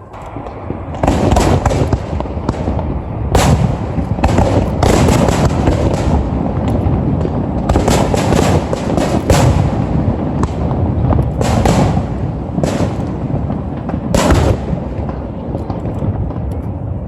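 Aerial fireworks bursting in a dense barrage: a quick run of loud sharp bangs, often several a second, with a heavy rumble between them.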